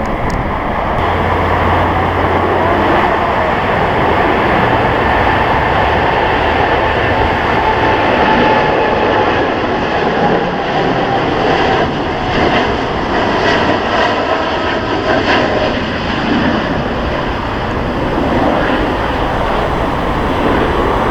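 Jet airliner's engines during a takeoff: a loud, steady noise with a whine whose pitch slowly falls as the aircraft passes, and strong wind on the microphone.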